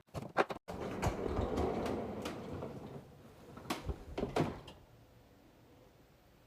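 Containers being handled while restocking a fridge: a few quick clicks, a sliding scrape lasting about two seconds, then two knocks, after which it goes quiet.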